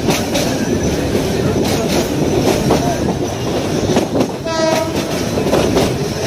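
A train running on the tracks with a steady rumble and clatter of wheels. A brief horn toot sounds about four and a half seconds in.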